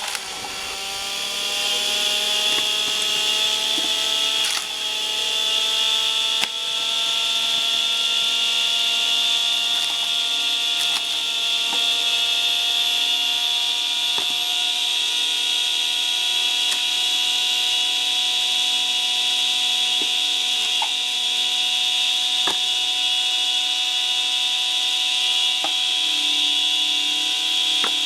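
A 600 W washing-machine motor drives a screw-cone log splitter, running with a steady whine. Its pitch climbs slightly over the first several seconds and then holds, with a few sharp cracks along the way.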